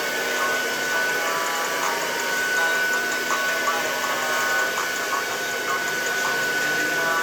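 Handheld hair dryer running steadily, a constant rush of air with a steady motor whine, used for blow-drying hair straight. Faint voices or music sit underneath.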